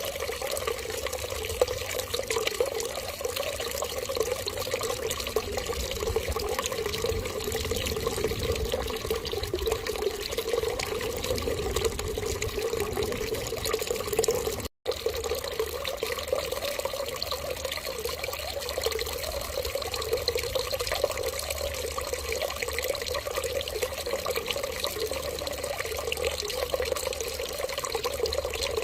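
Steady stream of running water, like a tap left running, with a momentary cut-out about halfway through.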